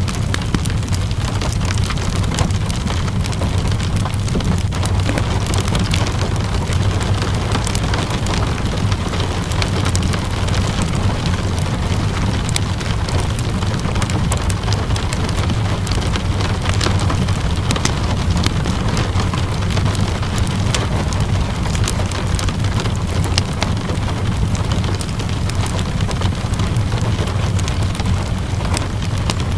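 Steady rainfall with a low, continuous rumble, mixed with the crackle and snap of a wood fire burning in a fireplace.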